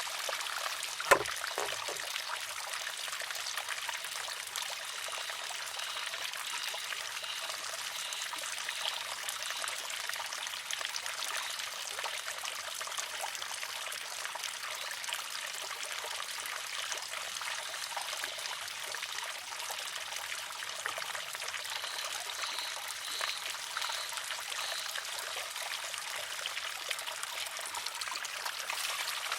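Water trickling steadily into a wooden shishi-odoshi. About a second in, the arm tips, empties and strikes its rock with one sharp clack, followed by a lighter knock as it settles.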